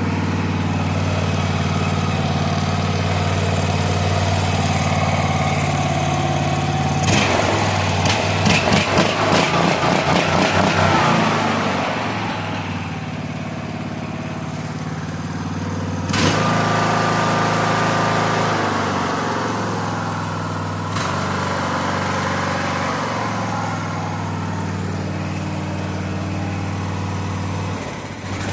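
Craftsman LT3000 lawn tractor engine running on a freshly cleaned and reinstalled carburetor. It runs unevenly for a few seconds, about a quarter of the way in, and changes speed several times in the second half: it is still clearing out, with the owner then calling it running great.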